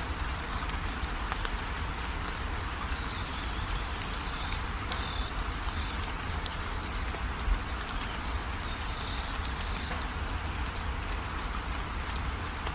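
Steady rain falling, with scattered drops ticking and a low rumble underneath. Birds chirp in thin, high calls on and off through it. There is one low thump a little past halfway.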